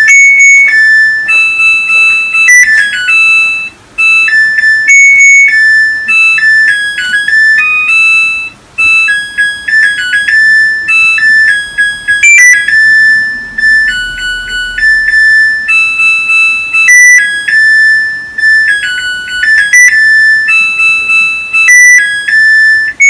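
Phone ringtone: a loud, high electronic melody of single beeping notes, repeating in short phrases with brief breaks between them.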